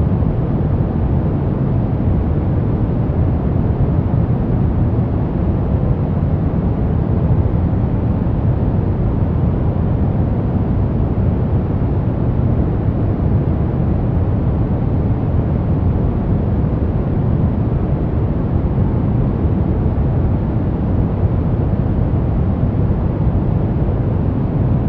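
Continuous, unvarying noise of a relaxation noise track, sold as white noise but weighted heavily toward the low end, so it sounds deep and dull rather than hissy.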